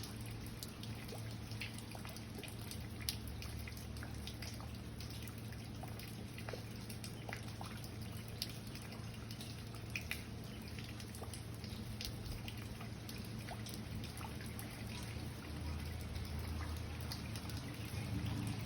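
Rain falling, with scattered individual drops dripping and plinking sharply over a steady hiss, and a steady low hum underneath.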